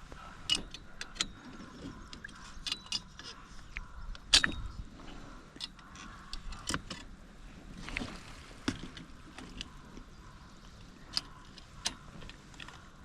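Irregular light clinks and knocks of metal parts being handled and set down, the loudest knock about four seconds in.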